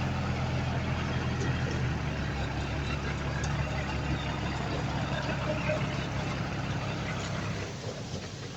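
Diesel engine of heavy earthmoving machinery running. A steady low engine hum in the first couple of seconds gives way to a noisy rumble, which eases off near the end.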